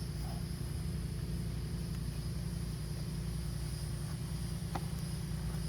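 1989 BMW 325is straight-six engine idling steadily on a cold start, a constant low rumble.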